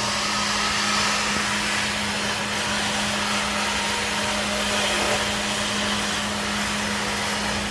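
Steady rushing machine noise with a constant low hum, with no change in level.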